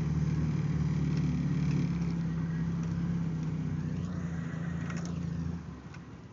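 Jeep engine idling steadily at an even pitch, then cutting off about five and a half seconds in.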